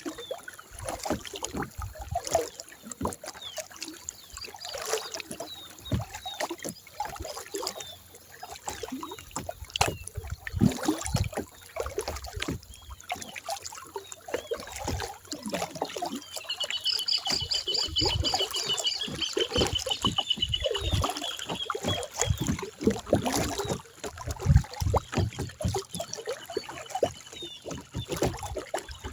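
Kayak paddling: irregular paddle knocks and water sloshing against the hull. A bird trills rapidly for a few seconds past the middle, with scattered chirps elsewhere.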